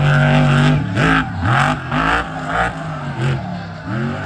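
Monster truck engine held at high revs, then revved up and down in a string of quick blips, each with a short rasp of exhaust.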